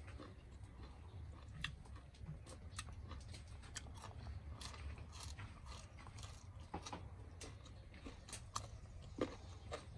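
Someone biting and chewing food: faint, irregular crunches and mouth clicks over a low steady rumble.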